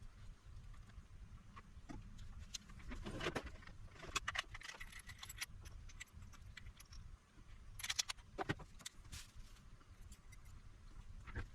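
Scattered small clicks and light metallic clinks of hand tools and parts being handled at a workbench, with a cluster about three to five seconds in and another about eight seconds in.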